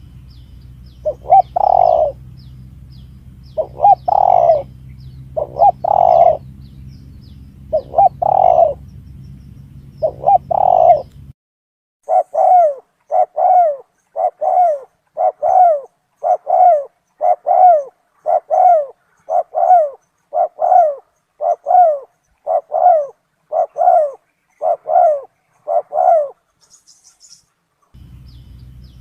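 Spotted dove (tekukur) cooing, a recorded lure call. First come spaced groups of two or three coos over a low hum, then after a short break a fast, even run of single coos, about one and a half a second.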